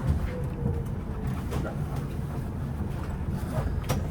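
Tram running, heard from inside the car: a steady low rumble with scattered clicks and knocks, and a faint falling whine in the first second.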